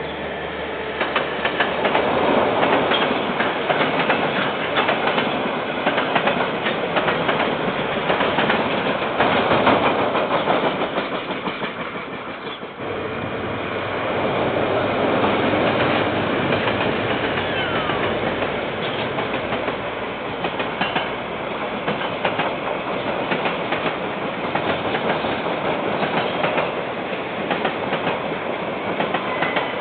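KiwiRail train passing, its wagons' wheels clattering steadily over the rail joints, heard through a security camera's microphone. The sound dips and changes abruptly about twelve seconds in.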